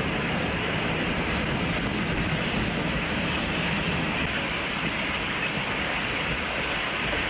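A train running by, a steady rush of noise with wind on the microphone.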